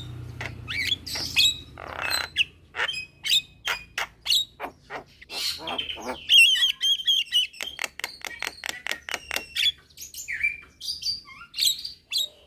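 Javan mynas calling: a quick series of harsh squawks, clicks and short whistled notes, with a longer warbling run about halfway through.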